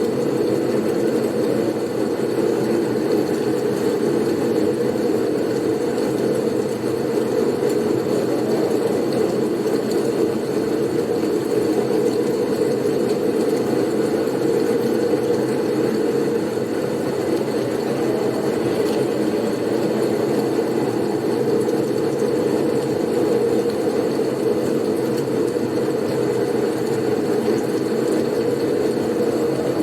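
Blizzard wind blowing steadily: a low rushing noise with almost no change in level. A faint, thin high tone runs above it throughout.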